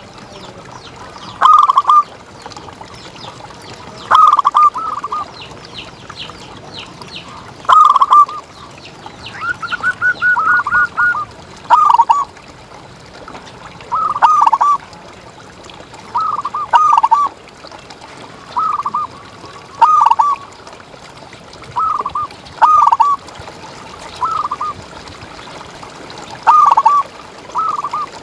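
Zebra dove (perkutut) cooing: short rolling phrases of a few notes, repeated every two to three seconds, with a quicker run of even notes about ten seconds in.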